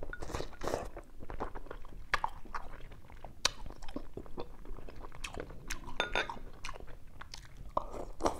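A person chewing and eating mouthfuls of meat-stuffed cucumber soup from a bowl with chopsticks, close to the microphone, with scattered small clicks of the chopsticks against the bowl.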